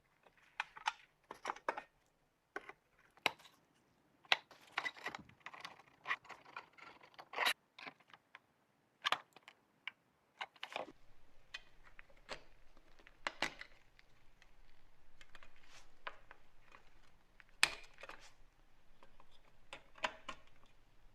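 Irregular light clicks, taps and knocks of small hard parts being handled and worked on, busiest in the first half. A faint steady hum comes in about halfway through.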